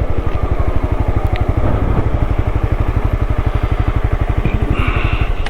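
Honda motorcycle engine running steadily under way, a quick even train of exhaust pulses.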